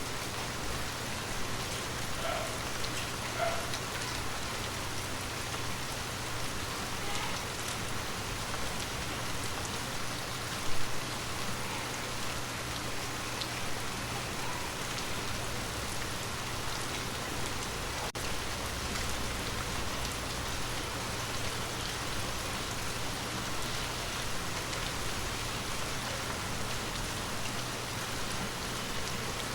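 Water drops falling on glass: a steady patter of small taps over an even hiss, with one louder drop about ten seconds in.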